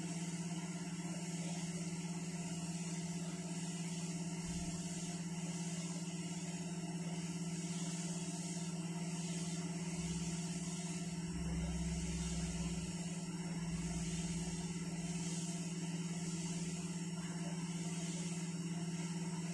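Hot-air rework station blowing steadily, a constant hum with an airy hiss, while it heats an iPhone 6 logic board to lift off the WiFi chip.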